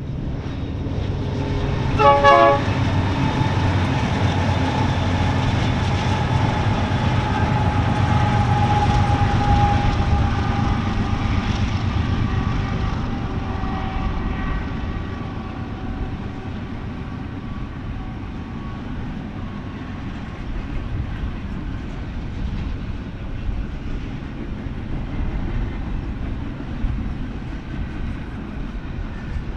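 BNSF diesel-powered freight train rolling past, with a steady low engine rumble and the rumble of cars on the rails. A short, loud horn sound about two seconds in is the loudest moment, and a few steady tones fade out over the first half.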